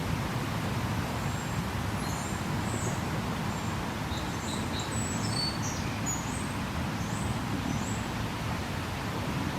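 Small birds chirping in short, scattered high calls over a steady low rushing background.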